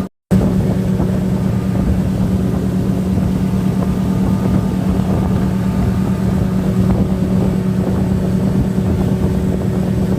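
Boat motor running steadily with a constant low drone, with some wind on the microphone. The sound cuts out completely for a split second at the very start.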